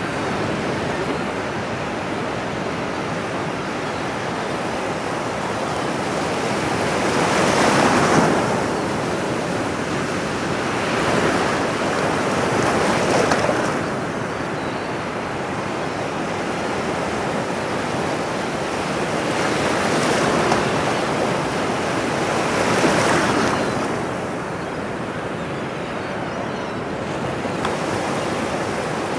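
Ocean waves breaking and washing on a shore, a steady rush of surf that swells every few seconds as each wave comes in.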